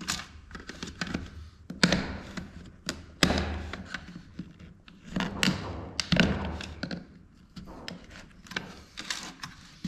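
Irregular knocks, clicks and scraping of hard plastic and metal parts being forced apart by hand while dismantling a Pelco dome security camera, with several sharper knocks along the way.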